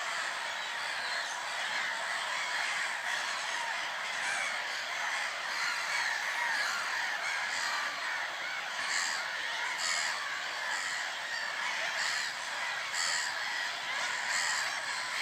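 A dense, continuous chorus of many waterbirds calling over one another at once, with louder calls breaking through every second or so.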